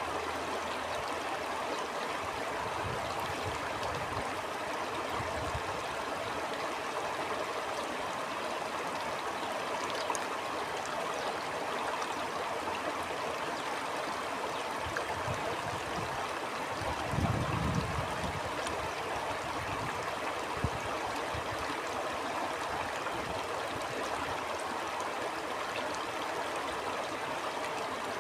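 Stream flowing steadily, an even rush of water, with a short low rumble about two-thirds of the way through.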